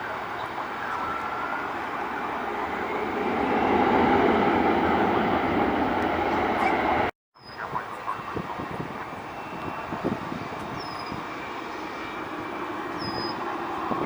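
Jet airliner engine noise swelling to a peak and easing off. After a sudden break, steadier jet and airport noise continues with a few short high chirps.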